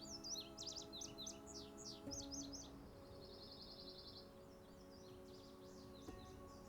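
Songbirds singing faintly in quick, bright, slurred phrases, with a fast even trill about three seconds in, over soft sustained chords of background music.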